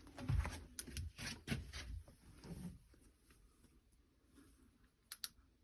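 Faint handling noise of knocks and rustling in the first few seconds, then a quiet stretch and a couple of sharp clicks near the end.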